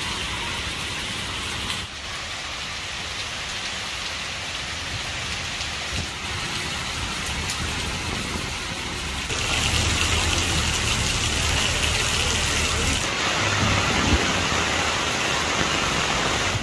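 Steady heavy rain falling on trees and leafy foliage, an even hiss. It changes level abruptly about two seconds in and again about nine seconds in, when it grows louder.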